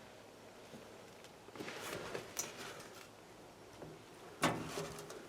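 Scuffing and rustling, then a sharp clunk with a short ring about four and a half seconds in: an old truck's cab door being shut.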